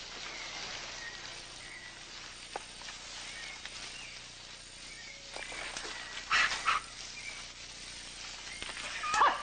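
Rainforest ambience: a steady insect hiss with scattered short chirps. Two loud cries come about six and a half seconds in, and another sharp call just before the end.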